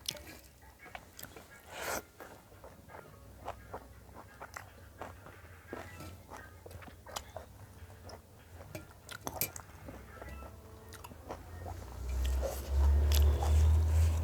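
Close-miked eating: irregular wet clicks, smacks and crunches of chewing and biting. A louder low rumble comes in near the end.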